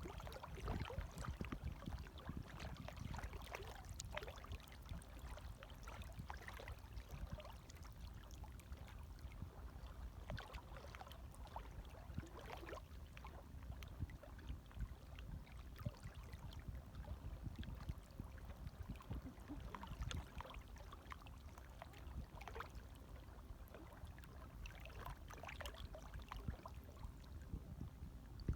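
Light waves lapping gently, a low steady rumble broken by many small irregular splashes and trickles.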